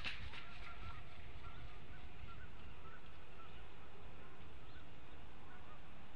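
Distant birds calling in short, repeated notes, over a steady low background rumble.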